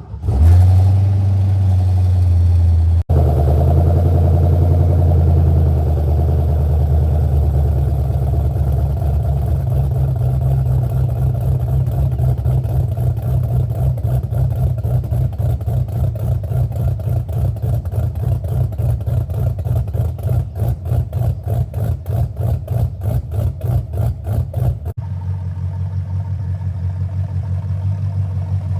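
Cammed Ford 351 Windsor small-block V8 in a Fox-body Mustang firing up on a cold start and idling, with a choppy, rhythmic lope from the aftermarket cam. About 25 seconds in, the idle drops and turns quieter.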